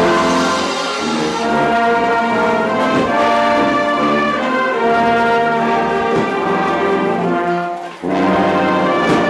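Marching band brass playing a loud, sustained tune, with a momentary break near the end before the playing comes back in.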